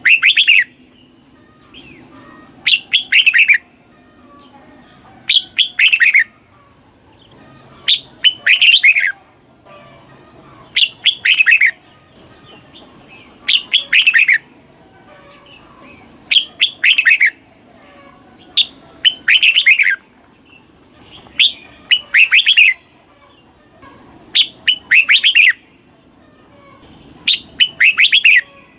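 Red-whiskered bulbul singing: short, bright phrases of quick whistled notes, each about a second long and repeated every two and a half seconds or so.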